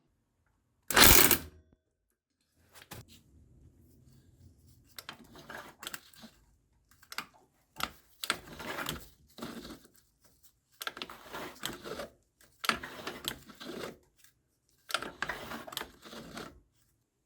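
A sharp knock about a second in, then about six spells of rapid clicking from a socket ratchet being worked in short strokes, each spell about a second long.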